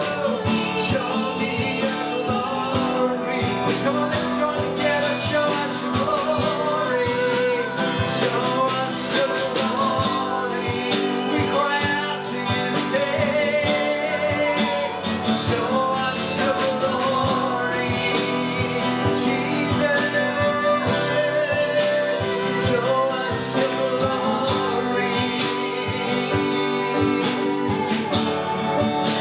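Live worship music: a band with guitar playing a steady song, with singing.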